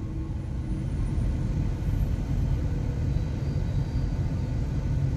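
Double-stack intermodal freight cars rolling past, a steady low rumble of steel wheels on the rails.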